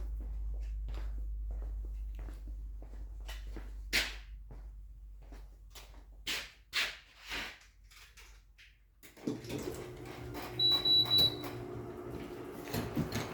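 Light clicks and knocks of tools and parts being handled on the engine, then about nine seconds in a steady mechanical hum starts suddenly, with a brief high whine and a few louder pulses in it.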